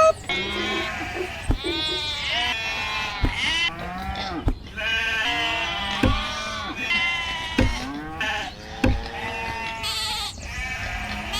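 Animal bleating: repeated short, wavering calls, with a sharp knock about every one and a half seconds.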